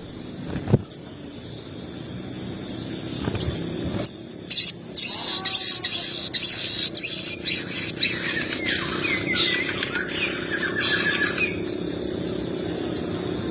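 Sogon birds calling: a few scattered chirps, then from about four seconds in a loud stretch of rapid, harsh chattering calls that ends in a run of quick repeated notes before dying away near the end.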